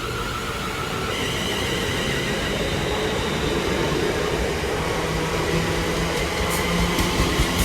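Electric passenger train moving through the station: a steady electric motor whine building slowly in level, with wheels clicking over rail joints near the end.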